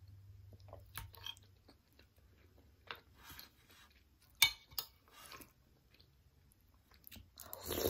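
Close-up chewing and wet mouth sounds of someone eating soft glutinous rice in durian kolak, with a metal spoon scraping and tapping the ceramic plate. A sharp click about four and a half seconds in is the loudest sound, and a longer, louder mouth sound comes near the end.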